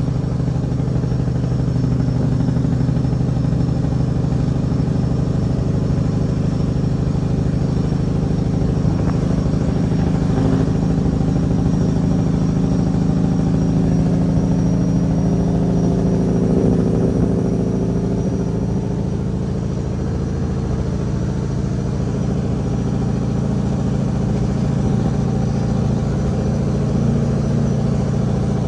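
Caterpillar 6NZ (3406E) inline-six diesel of a Kenworth W900L running steadily under a heavy load of 50 tons, with a deep, even engine note. The engine eases off slightly about twenty seconds in, then settles back.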